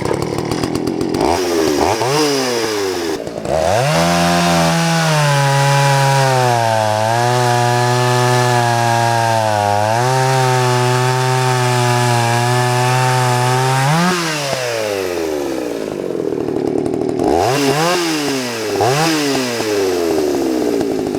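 Vintage Poulan 3400 CounterVibe two-stroke chainsaw running: revved up and down over the first few seconds, then held at high revs for about ten seconds, pulling down slightly twice as if under load cutting wood with a chain that needs sharpening. The revs then fall off, it is blipped up twice, and it settles back toward idle near the end.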